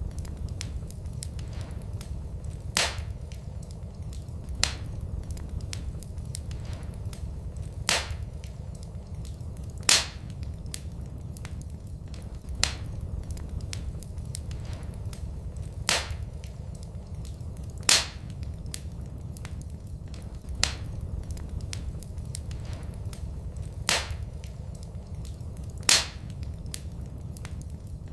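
Wood fire burning in a fireplace: a steady low rumble of flames with small crackles and sharp pops about every two seconds.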